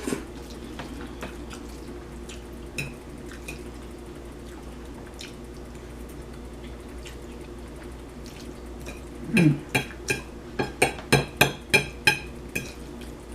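Eating sounds close to the microphone: a fork clinking and scraping on a plate of spaghetti. Scattered faint clicks at first, then a quick run of sharp clicks and taps about nine seconds in.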